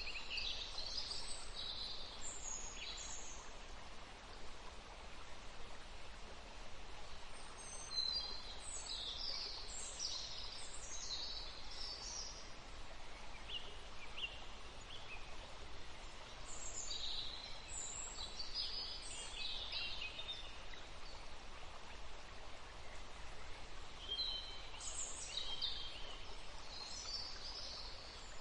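Songbirds chirping in short high bursts of several quick notes, coming in clusters every several seconds over a steady background hiss of forest ambience.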